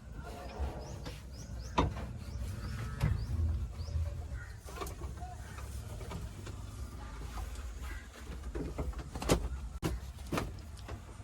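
Heavy machinery engine running low and steady, with several sharp knocks or clanks over it, the loudest about nine seconds in.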